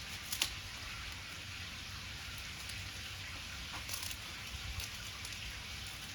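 Wood fire crackling: a steady hiss with a few sharp pops, the loudest about half a second in.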